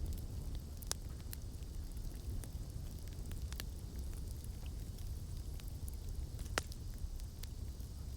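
Campfire burning: a steady low rumble of flames with scattered sharp crackles and pops of burning wood, the loudest pop about six and a half seconds in.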